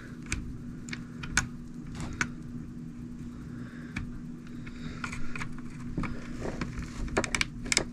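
Scattered light clicks and taps of small plastic and metal parts being handled as an RC truck's wheel hub and bearings are worked on by hand, with a quick run of clicks near the end. A steady low hum runs underneath.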